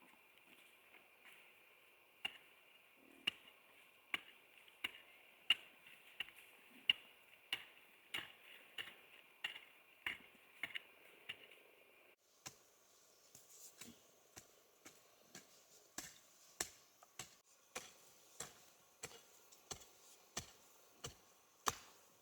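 A hand tool chopping wood in steady, evenly spaced strokes, about one or two a second, over a steady high drone. About halfway through, the background changes abruptly and the drone sits higher, while the chopping goes on.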